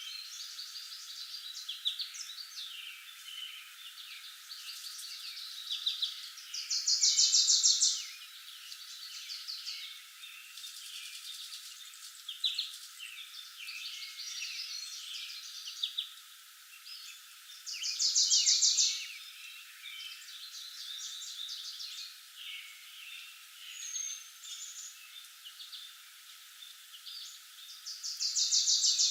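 Several woodland birds singing and chirping together. One loud, fast trill stands out above the rest, coming three times, about every ten seconds.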